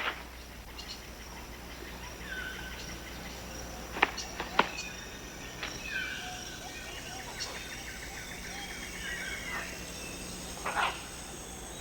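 Tropical rainforest ambience: short bird chirps and a brief trill over a steady insect background, with a few sharp clicks.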